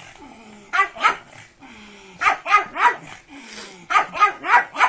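A dog barking in short quick runs: two barks, then three, then four, with brief pauses between the runs.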